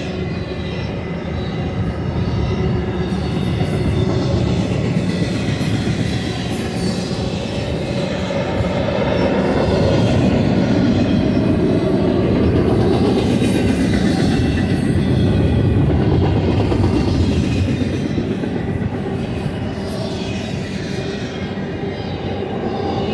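Loaded double-stack intermodal freight cars rolling past on the mainline: a steady rumble of steel wheels on rail with some clickety-clack, swelling louder in the middle.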